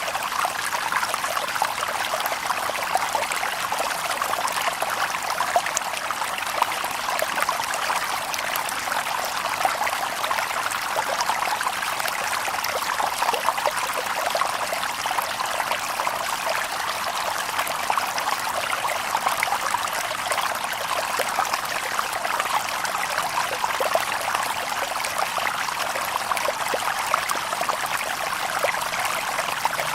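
River water babbling and trickling over stones: a steady, even flow, with many small splashes.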